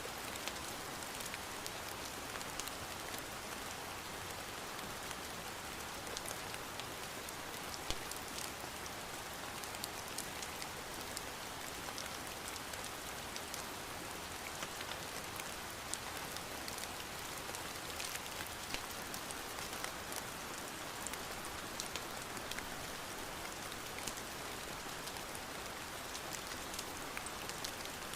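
Steady rain hissing evenly, with scattered sharp ticks now and then.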